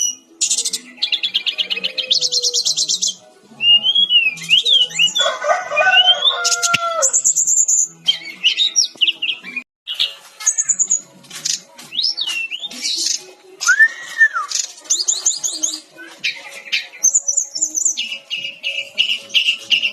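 Jungle flycatcher (sikatan-rimba dada-coklat) singing in quick, varied phrases of rapid high trills and short whistled glides, as used for masteran song training. A lower, fuller call cuts in about five to seven seconds in.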